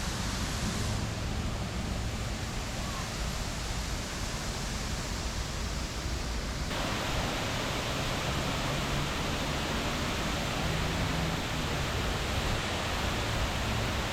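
Water from a 45 m man-made waterfall pouring down a rock face: a steady rushing noise. Its tone changes abruptly about seven seconds in.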